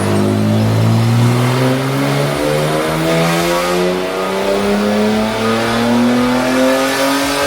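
BMW G80 M3's twin-turbo S58 inline-six pulling at full throttle on a chassis dyno, its pitch climbing steadily as the revs rise through a single long pull in one gear.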